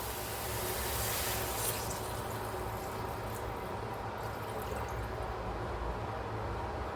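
Home-canned chicken broth pouring out of a jar into the soup pot, the liquid splashing in for about the first two seconds before it dies down to a faint steady hiss.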